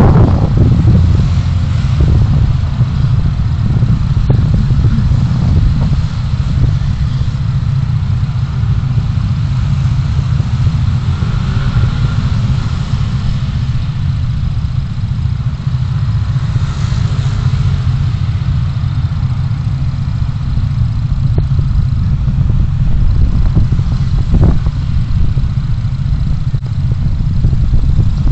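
Car driving in city traffic: a steady, loud low rumble of engine and road noise.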